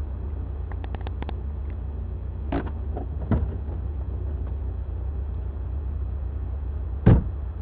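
Steady low rumble of a car on the move, with a few light clicks and knocks, and a loud short thump about seven seconds in.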